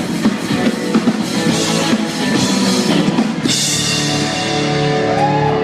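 Live rock band, drums and electric guitars, playing the last bars of a song, which ends about three and a half seconds in on a cymbal crash and a long ringing chord. Near the end, whoops from the crowd start over it.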